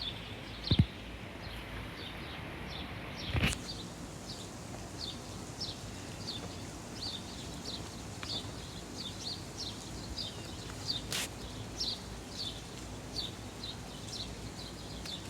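A bird chirping over and over, short high downward notes about twice a second, over a steady outdoor background hiss. A loud thump comes a little under a second in and a knock about three and a half seconds in.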